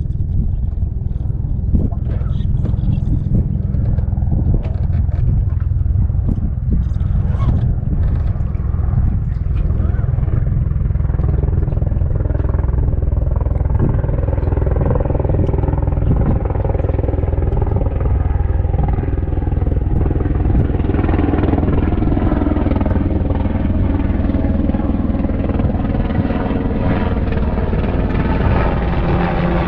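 Boat's outboard motor running under way, a steady low rumble with its engine note climbing slowly through the second half.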